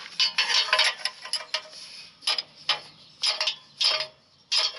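Repeated metal-on-metal blows against a Jeep's starter motor and solenoid: a quick flurry of knocks, then about five single strikes spaced over the next few seconds. It is the old trick of knocking a sticking starter to make it engage, used because the owner believes the solenoid or starter is bad.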